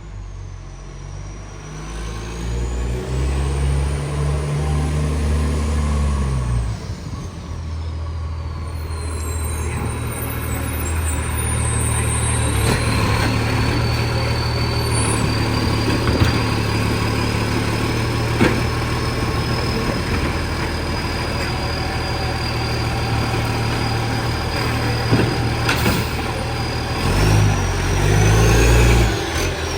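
Garbage truck's diesel engine running with a loud exhaust leak. The engine speeds up and falls back in the first several seconds, then runs steady before surging again near the end, with a thin high whine sliding in pitch above it.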